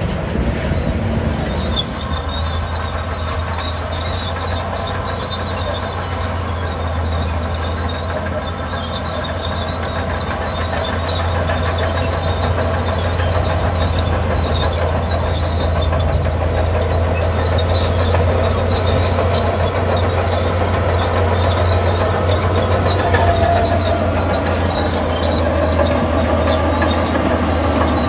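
Crawler bulldozer working: its diesel engine drones steadily under load while the steel tracks give off scattered high squeaks, the whole getting somewhat louder partway through.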